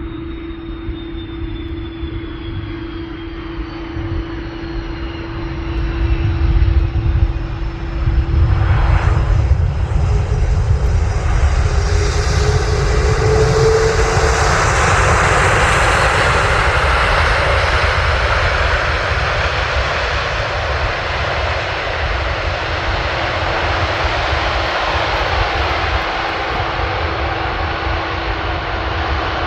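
Jet airliner landing close by: its engine noise swells to a peak about a quarter of the way in and then fades slowly as it rolls away, with a high engine whine falling in pitch in the first several seconds.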